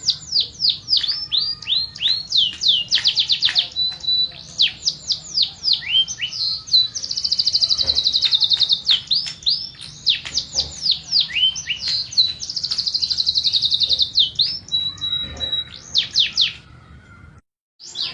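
Domestic canary singing: fast runs of high sweeping notes, steady whistled tones and long rapid rolls, with a brief break near the end.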